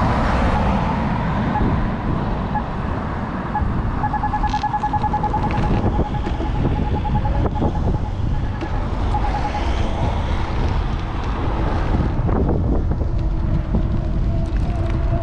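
Wind rumbling on an action camera's microphone on a moving bike, with road traffic alongside. A rapid pulsed electronic beeping runs for several seconds in the middle.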